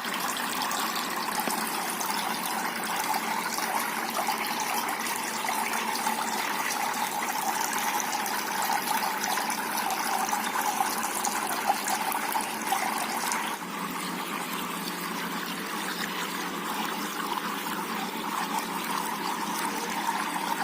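Water trickling and splashing steadily down a small cement waterfall fountain, a little quieter after about thirteen seconds.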